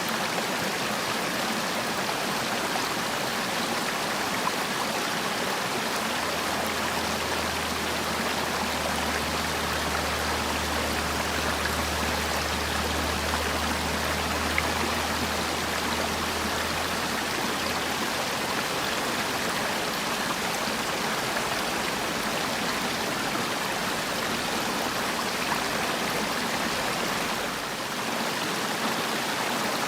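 Mountain valley stream flowing, a steady, even rush of water. A low hum sits underneath for about ten seconds in the middle.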